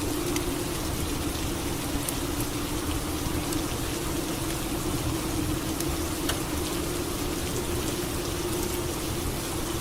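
Steady rain falling, with scattered drips ticking, over a constant low hum.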